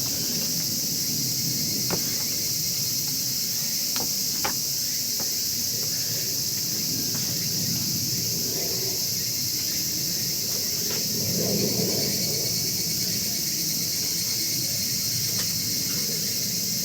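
Steady high chorus of crickets. Through it come a few sharp crackles and pops from a wood fire burning in a chimney fire pit, over a soft low rumble of the flames.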